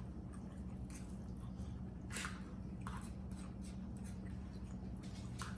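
Someone eating: scattered wet chewing and lip-smacking clicks, a few a second at most, over a steady low hum.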